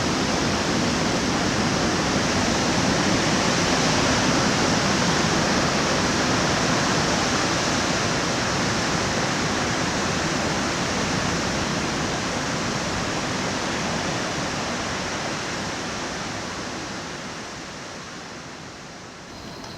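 Typhoon storm noise: a dense, steady rush of wind and rain that eases off over the last few seconds.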